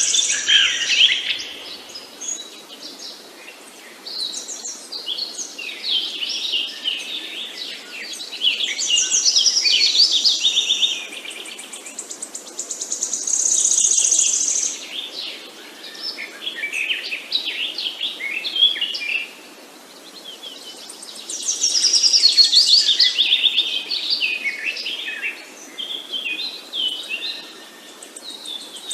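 Birds chirping and singing, several overlapping songs made of quick chirps and trills that come in bouts of a few seconds with short lulls between, over a faint steady hiss.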